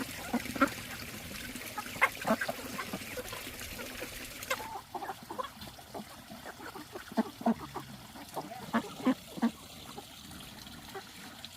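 Farm poultry, ducks and chickens, calling with many short, scattered calls. A steady hiss under the first part stops suddenly about five seconds in.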